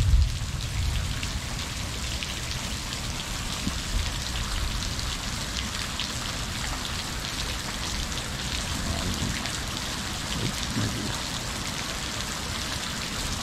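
Steady heavy rain falling in a thunderstorm, an even hiss of pattering drops. A low rumble of thunder dies away in the first moments.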